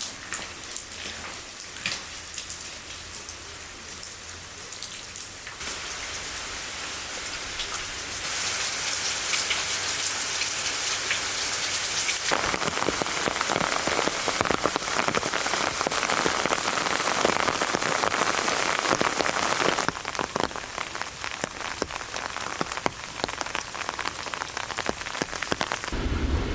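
Heavy rain falling, a dense patter of drops with sharp individual drop hits. It grows louder abruptly about a third of the way in and eases back near the end.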